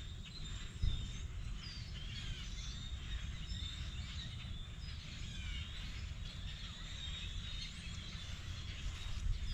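Outdoor ambience of many small birds chirping and twittering over a steady high insect drone, with a constant low rumble underneath and a single bump about a second in.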